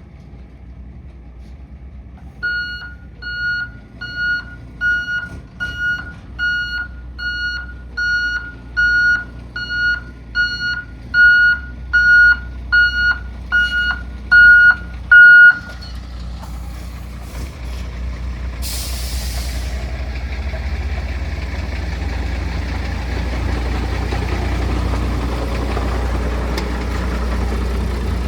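MAN TGM 18.240 truck's reverse alarm beeping a little over once a second for about thirteen seconds, with the diesel engine running underneath. After the beeping stops the engine runs on louder, with a short air hiss about two-thirds of the way through.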